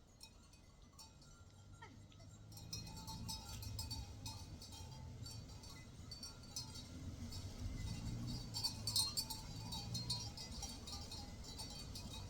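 Small livestock bells clinking irregularly, starting about two and a half seconds in, over a low wavering sound.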